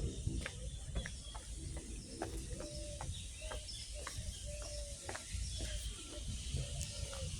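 Small birds chirping, with a dove cooing in several short, even notes, over a steady low rumble and a few sharp clicks.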